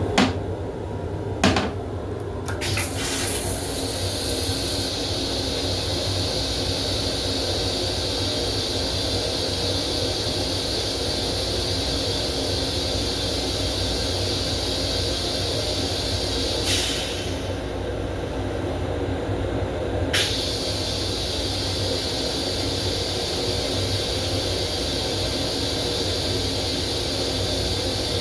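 Fixtures in an M7 commuter railcar's restroom over the train's steady running rumble: two sharp clicks, then a rush of hiss and a long steady high hiss that stops for about three seconds in the second half before starting again.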